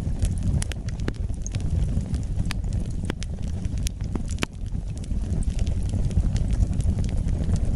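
Wood fire burning in a fireplace: a steady low flame rumble with irregular sharp crackles and pops from the burning logs.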